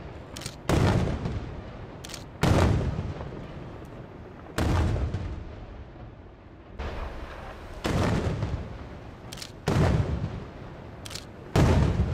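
Aerial firework shells bursting, a heavy boom about every two seconds, each dying away in a rolling echo. Lighter sharp cracks come in between some of the booms.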